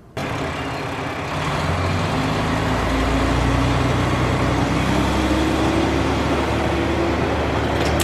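Train at a station, its engine or motors running with a steady mechanical hum that starts abruptly just after the beginning; a low tone rises slowly in pitch through the middle.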